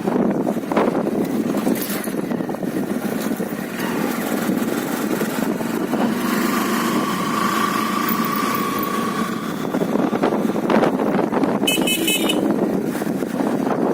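Motorcycle riding along a road, a steady rushing din of engine, tyres and wind. A high tone is held for about three seconds in the middle, and a short warbling beep comes near the end.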